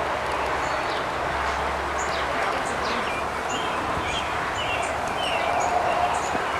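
Steady buzzing of honey bees around an open hive, with small birds chirping many times over it.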